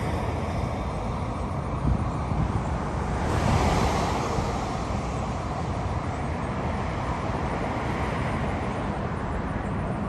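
Road traffic passing, with one vehicle going by about three to four seconds in.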